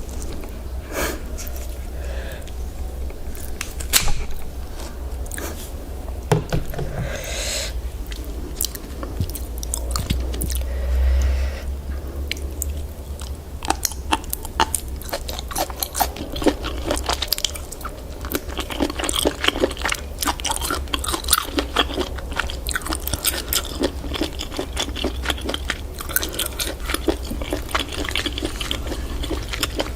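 Close-miked chewing and biting of octopus: wet, crunchy, clicking mouth sounds, coming thicker in the second half, over a steady low hum.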